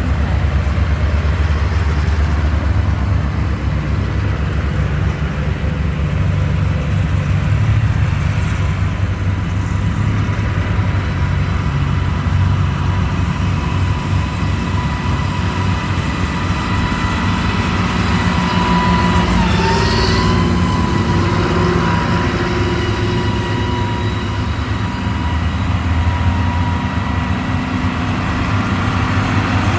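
Tractor engines running in a steady low rumble, with a thin steady whine above them that dips briefly in pitch about two-thirds of the way through.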